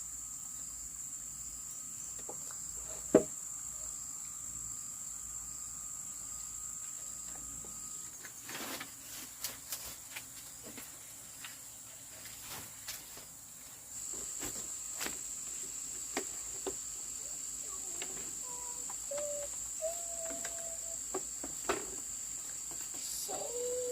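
Steady high-pitched insect trill, typical of crickets, that stops for several seconds around the middle and then starts again, with scattered clicks and one sharp knock about three seconds in.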